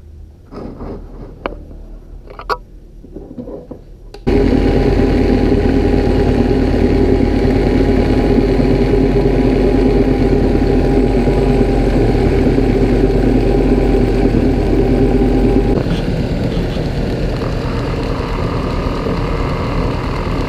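A few faint clicks, then about four seconds in a homemade belt grinder, driven by the motor of an old double-wheel bench grinder, switches on suddenly and runs with a steady hum and whir. Near the end the pitch of its hum changes and it gets a little quieter.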